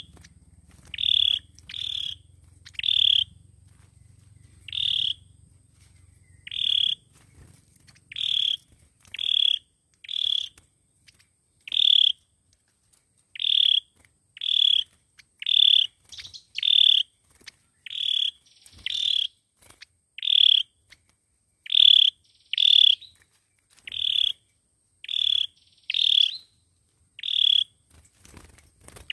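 A sâu dừa bird repeating one short, high call about once a second, each note brief and the same pitch, as used for a lure recording.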